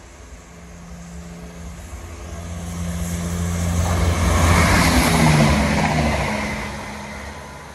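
Northern Class 170 Turbostar diesel multiple unit approaching and passing at speed. The engine note and the rush of wheels on rail build to a peak about halfway through, the engine note drops in pitch as the train goes by, and then it fades.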